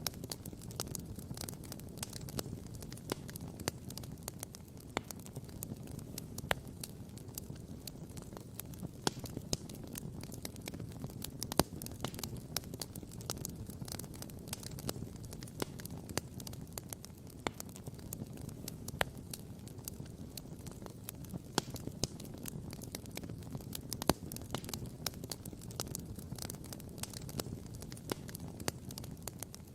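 Wood campfire crackling and popping: a dense run of small irregular snaps with a few louder pops, over a low steady rumble.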